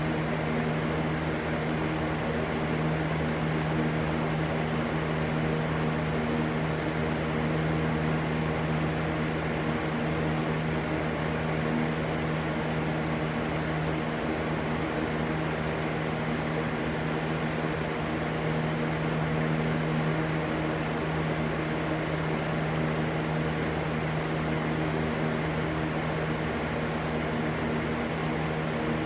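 Steady white-noise rush with a constant low hum under it, never changing in level.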